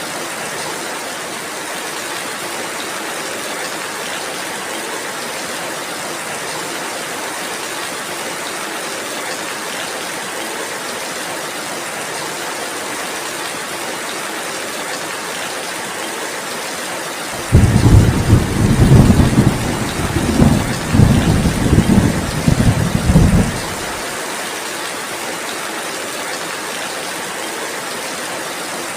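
Steady rainfall hissing throughout. About two-thirds of the way in, a loud, low rolling thunder rumble starts suddenly, swells and ebbs for about six seconds, then cuts off abruptly.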